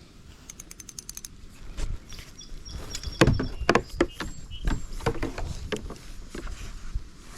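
Fishing gear being handled in a plastic kayak: a quick rattle of small clicks, then a run of irregular sharp knocks and clatters, loudest a few seconds in.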